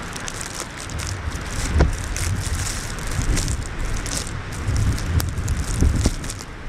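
Winter storm wind gusting across the microphone in uneven bursts of low rumble, with scattered crackling over it.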